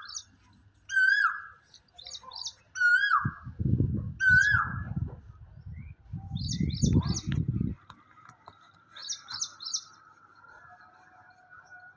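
A bird calling repeatedly with short downward-sliding notes, mixed with quick bursts of high chirps. Two stretches of low rustling noise come in the middle, and a faint steady whistled tone runs through the second half.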